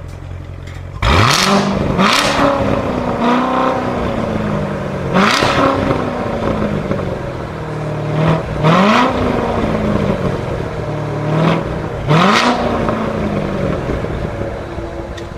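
A supercar's engine revved hard in about five sharp throttle blips, each jumping up and then dying away slowly, with sharp cracks from the exhaust at each blip.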